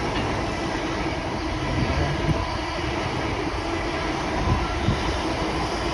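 Great Western Railway Class 802 IET bi-mode train passing through, a steady rumble and rush of the train on the track.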